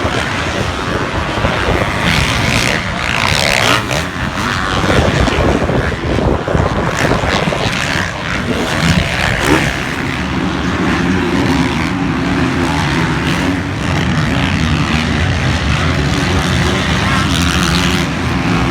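Motocross bike engines running loudly, revving unevenly at first; from about ten seconds in, an engine holds a steady note.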